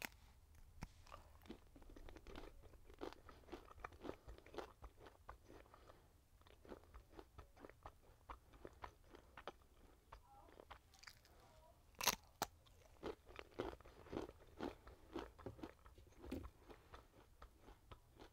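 Close-up eating sounds: turkey bacon being bitten and chewed, with a run of small crunches and wet mouth clicks. One much louder sharp click comes about twelve seconds in.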